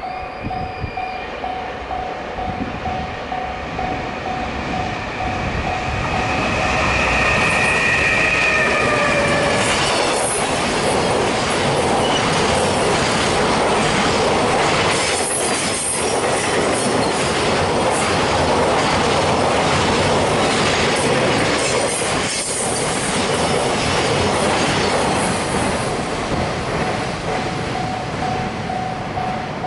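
Level-crossing alarm ringing in a steady pulsing beat while a train approaches and passes. About seven seconds in there is a high, sliding tone that falls in pitch. Then the train's wheels rumble and clatter loudly over the crossing for about sixteen seconds, fading near the end as the alarm comes through again.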